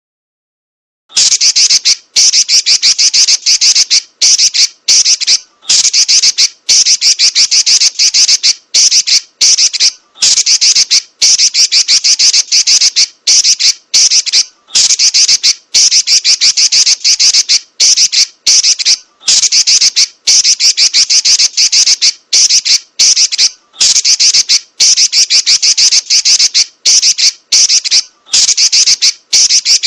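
Female red-billed leiothrix (Pekin robin) giving a rapid, high-pitched chattering call in loud bursts of one to two seconds with short breaks between them. It starts about a second in.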